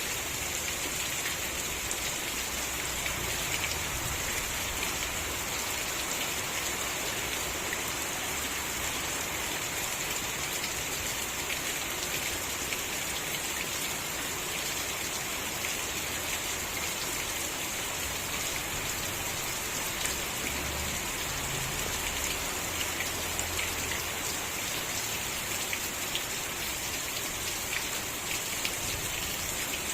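Steady rain falling and pattering on a surface, with many small drop ticks in an even hiss.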